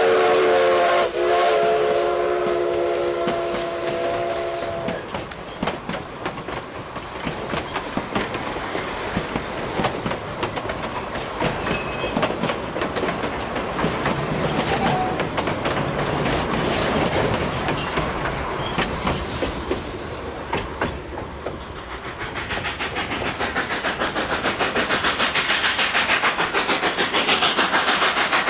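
Narrow-gauge steam locomotive's whistle sounding a chord of several tones, with a short break about a second in, cut off about five seconds in. Then the train runs on with a clickety-clack of wheels over the rails, and a rhythmic pulsing grows louder near the end.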